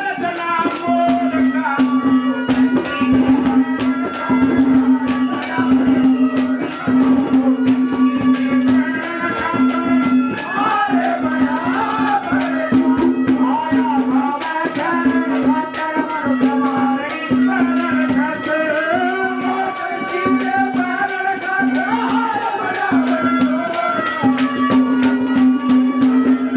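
Haryanvi folk instrumental music: a hand drum keeps a steady rhythm under a wavering melody line, with a low note repeating in short pulses.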